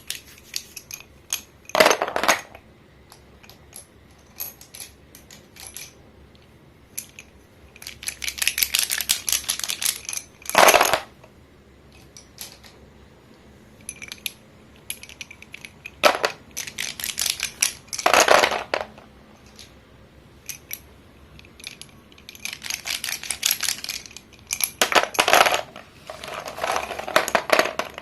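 Sticks of school chalk being snapped and crumbled by hand: crisp crunching and crackling in bursts, with several sharp, loud snaps spaced a few seconds apart and quiet ticking of crumbs in between.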